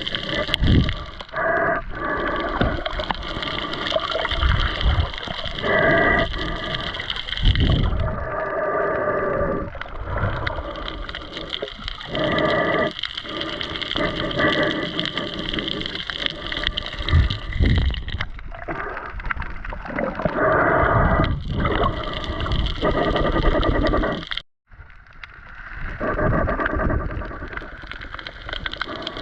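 Underwater water noise: water sloshing and gurgling in uneven surges every second or two over a steady hiss, cutting out for an instant about 24 seconds in.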